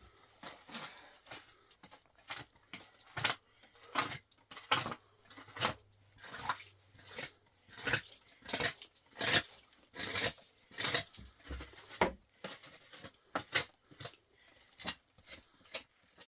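Cutlery clinking against dishes in a run of irregular sharp clicks, one or two a second, as someone eats or handles plates.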